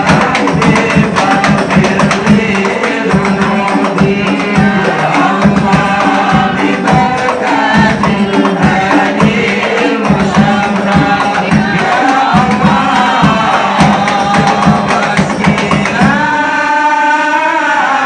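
A group singing devotional sholawat together to hadroh frame drums (rebana) played in a fast, dense rhythm. About two seconds before the end the drums stop, leaving the voices holding long, wavering notes.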